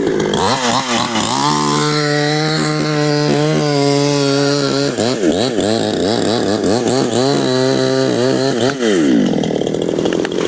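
Chainsaw engine revving. Its pitch climbs in the first second and holds high and steady for a few seconds, then rises and falls quickly over and over before dropping back to idle about nine seconds in.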